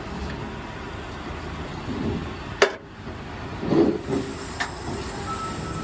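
Steady low rumble of an idling truck engine. A sharp click comes about two and a half seconds in, and a louder rustling scrape about a second after that.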